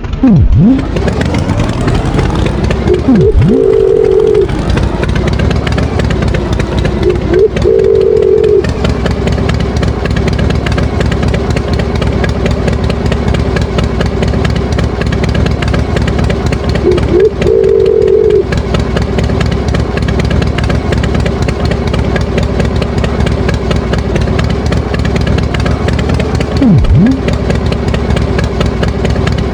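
Tractor engine running steadily at idle, with a few brief louder surges.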